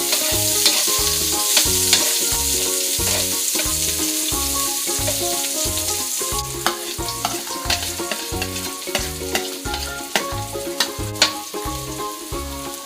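Garlic and onion sizzling in hot oil as they are sautéed, stirred with a few sharp taps of the utensil on the pan. Background music with a steady beat plays underneath.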